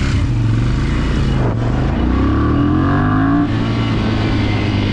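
Motorcycle engine pulling away and accelerating. The revs climb steadily for about a second and a half, then drop sharply at a gear change about three and a half seconds in, with wind rushing over the microphone.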